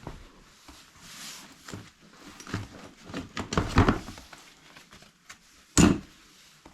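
Twigs from a bird's nest being worked down a chimney flue: rustling and scraping, with a run of clattering knocks a few seconds in and one sharp, loud knock near the end.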